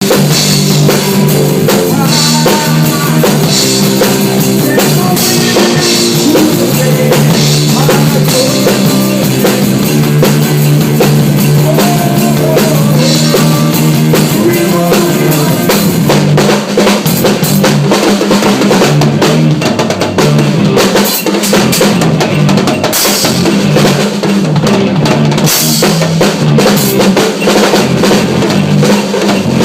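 A drum kit played in a busy, fast drum solo (kick drum, snare and rimshots), over held low notes and a short melodic line from other instruments underneath.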